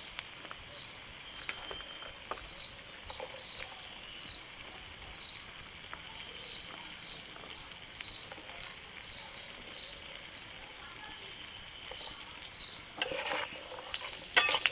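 A bird calls over and over in short high chirps, roughly two a second, above a faint sizzle of onions frying in oil in a wok. Near the end a metal spatula scrapes and clinks in the wok as the onions are stirred.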